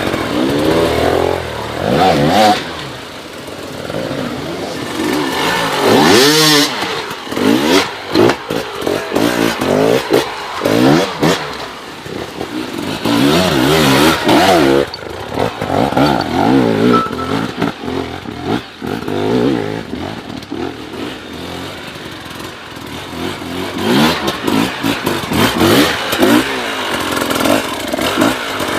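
Motocross dirt bike engine revving hard, its pitch climbing and dropping again and again as the throttle is opened and shut, with loud full-throttle bursts.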